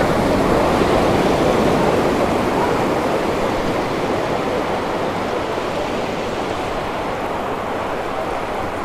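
Sea surf washing onto the beach: a steady rushing that slowly fades.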